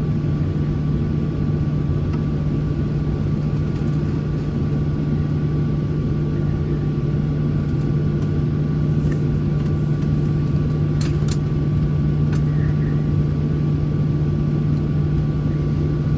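Boeing 737 cabin noise with the engines idling while the airliner holds on the runway before takeoff: a steady low drone with a faint, even whine above it. A couple of faint clicks come about eleven seconds in.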